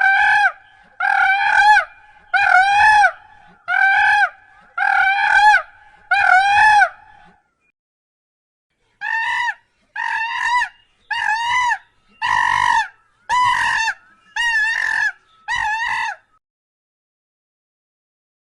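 A farm bird calling in two series: six loud calls about a second apart, a pause of about two seconds, then seven shorter calls. Each call is a clear note that rises and falls in pitch.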